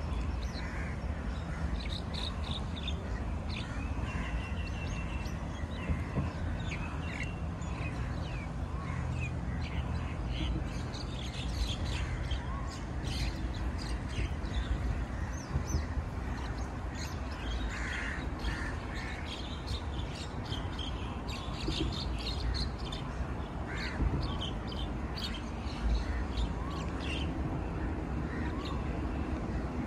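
Birds calling and chirping on and off, over a steady low rumble.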